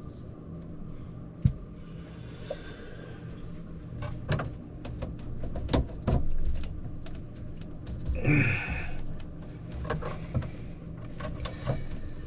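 Plumbing work noises while CPVC pipe and fittings are glued and joined: scattered clicks and knocks of parts and tools being handled, with a sharp knock about a second and a half in and a short harsh scrape about eight seconds in, over a steady low hum.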